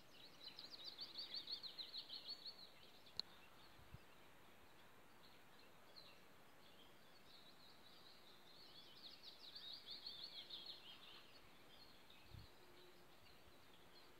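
Faint songbird song outdoors: two rapid trilled phrases of short high notes, about eight seconds apart, the second falling a little at its end. A single small click sounds about three seconds in.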